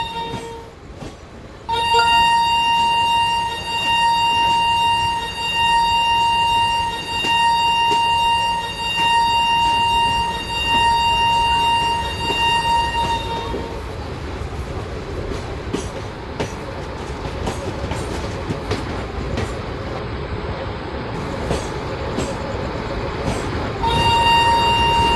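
A train horn sounds briefly, breaks off, then sounds again in one long steady blast of about twelve seconds. After that a passing train rumbles with irregular clicks of wheels over the rail joints, and the horn starts again near the end.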